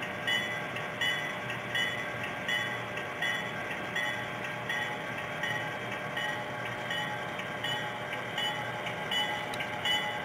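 Train rolling along its track, with a steady, regular clicking rhythm of the wheels over the rails.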